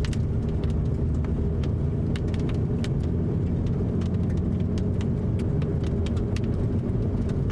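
A car driving at steady speed: constant low road and engine rumble, with scattered sharp ticks throughout.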